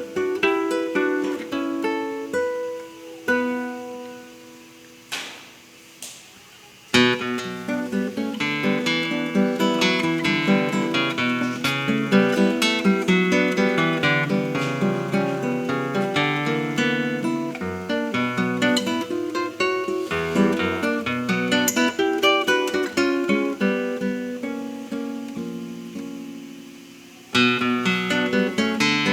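Solo acoustic guitar playing a fingerpicked passage. A few seconds in it thins out and fades to a near pause with a single ringing note, then resumes with dense plucked notes; near the end it dies down briefly before a loud chord re-enters.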